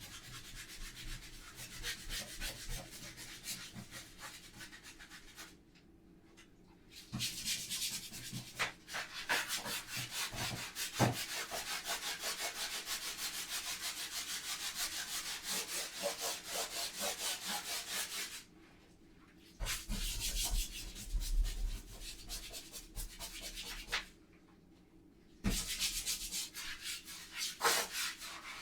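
Rapid back-and-forth scrubbing strokes on a bathroom surface, a dense rasping rub that stops briefly three times, about 6, 18 and 24 seconds in.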